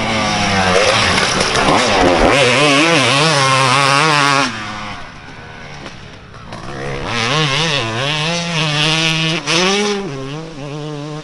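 Dirt bike engine revving as it is ridden, its pitch rising and falling with the throttle. It is loud for the first four seconds or so, drops away, then builds again before easing off near the end.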